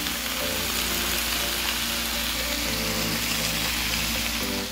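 Fish tikka skewers sizzling steadily in oil on a ridged grill pan, their second side frying after the flip.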